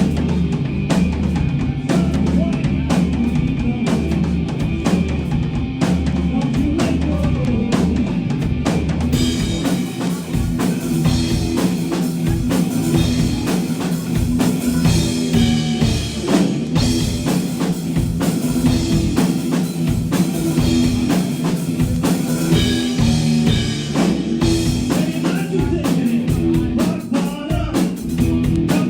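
Live rock band playing an instrumental passage, drum kit driving a steady beat under bass and guitar. About nine seconds in the deepest bass drops away and the cymbals come up.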